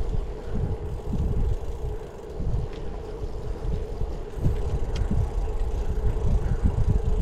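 Wind buffeting the microphone and road rumble from a moving bicycle, under a steady hum.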